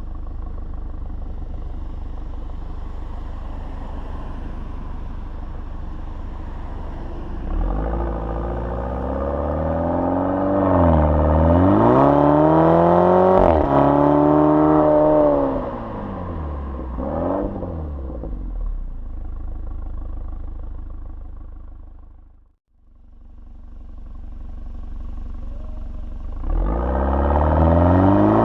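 BMW 428i's 2.0-litre turbocharged four-cylinder exhaust through an M Performance Exhaust, droning steadily at low revs, then accelerating hard: the pitch climbs and drops back at two upshifts before easing off to a steady drone. The sound cuts out for an instant about two-thirds through, and the engine starts pulling and rising in pitch again near the end.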